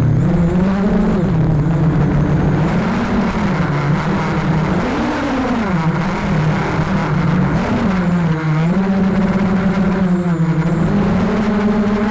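Arris drone's motors and propellers whining steadily, the pitch swooping up and down every second or two as the throttle changes during stunts.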